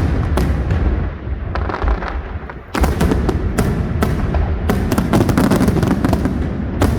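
Fireworks display: a rapid string of sharp bangs and crackles over a continuous low rumble, easing briefly about two and a half seconds in before a denser barrage of cracks.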